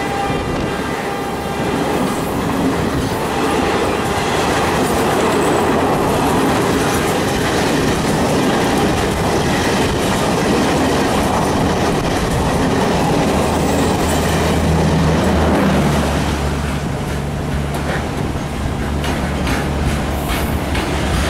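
Indian Railways passenger train passing at speed, a loud steady rush of wheels and coaches, with a low steady hum joining about two-thirds of the way in and wheels clacking over rail joints near the end.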